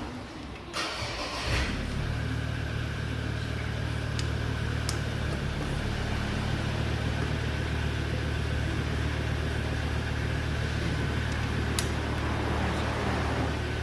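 A motor or engine starts about a second in and then runs with a steady low hum.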